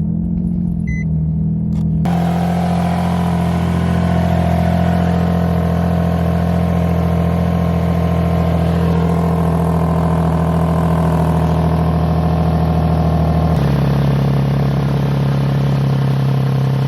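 Nissan 350Z's 3.5-litre V6 running at a steady fast idle just after a cold start, the idle stepping down to a lower note about three-quarters of the way through. It runs with no exhaust leak after a new exhaust manifold gasket.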